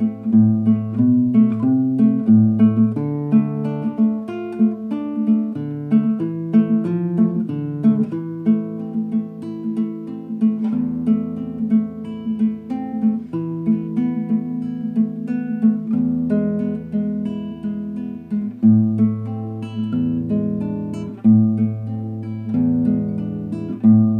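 Guitar music: a steady run of picked notes over low bass notes that change every second or two.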